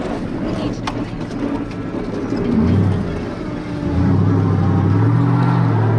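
Monster truck's V8 engine running at low speed. It rises briefly about two and a half seconds in, then picks up again near four seconds and holds at higher revs. A single sharp knock comes just under a second in.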